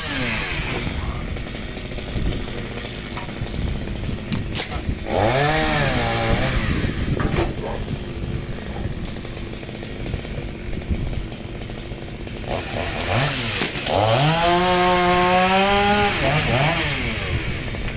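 Petrol chainsaw running at idle and revved up twice: briefly about five seconds in, then again for about three seconds from about thirteen seconds in. Each time the pitch rises quickly and then holds.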